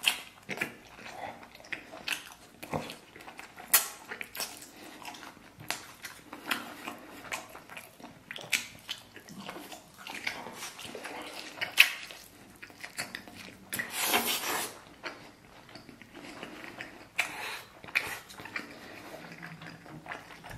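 Close-miked eating: a man chewing and gnawing meat off a lamb chop bone, with irregular wet lip smacks and mouth clicks and occasional taps of chopsticks on the metal bowl.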